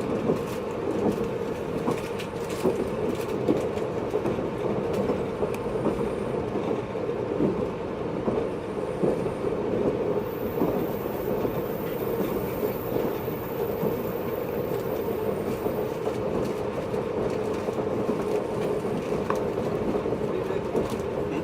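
Running noise inside a JR East 583 series motor car (MoHaNe 582) under way at a steady pace: a continuous rumble with scattered short knocks from the wheels on the rails.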